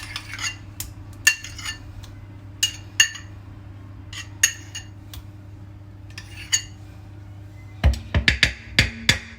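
A utensil clinking and tapping against a mixing bowl as chopped slaw vegetables are added to a sour cream and yogurt dressing. Scattered ringing clinks come every second or so, then a quick run of heavier knocks near the end, over a steady low hum.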